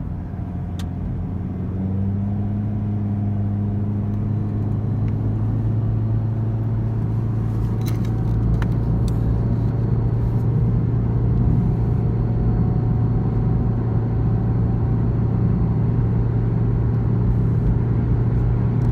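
Car running, a steady low engine drone mixed with road noise that slowly grows louder.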